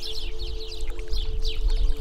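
Small birds chirping over and over in quick, short, falling notes, over a loud low rumble of moving water or wind and a faint steady low hum.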